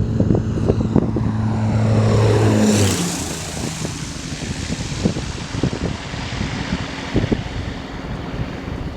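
Cessna 210M Centurion's six-cylinder piston engine and propeller passing close by. A steady drone grows loudest, drops sharply in pitch about three seconds in as the plane goes past, then fades away. Wind buffets the microphone throughout.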